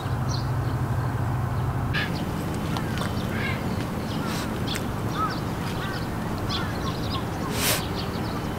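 Short bird calls scattered over a steady low rush of outdoor background noise. A low hum stops about two seconds in, and a brief sharp burst of noise comes near the end.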